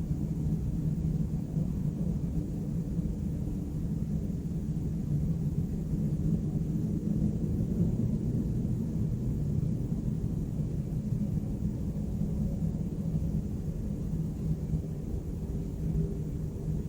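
Steady low rumble of city traffic, with no single vehicle standing out; a faint higher hum comes in near the end.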